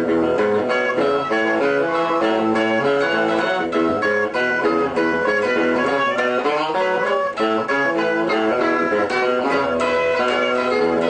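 Guitar music: a quickly picked tune with a steady run of plucked notes.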